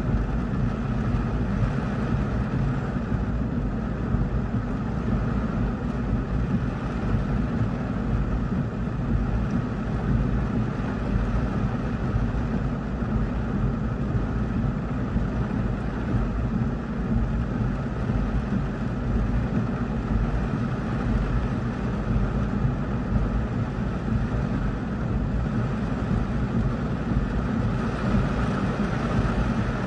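Heavy rain with big drops pounding steadily on a car's roof and windshield, heard from inside the cabin as an even rush with a deep low rumble.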